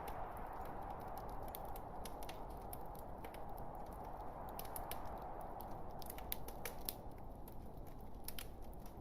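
Burning log fire crackling: irregular sharp snaps and pops over a steady hiss, with the pops coming thickest between about six and seven seconds in.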